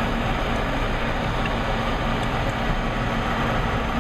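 High-efficiency gas furnace running with its burners lit and inducer motor on: a steady, even noise with a low hum, and a couple of faint ticks in the middle.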